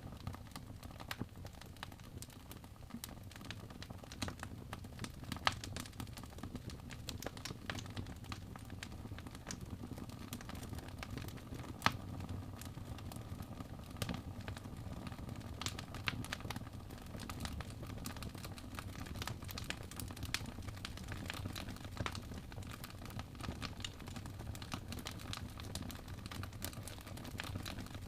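Wood fire crackling in a fireplace: irregular snaps and pops over a steady low rumble of burning, with a couple of louder pops about five and twelve seconds in.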